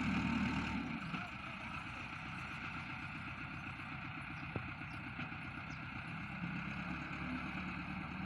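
Tractor engine running steadily, a little louder in the first second.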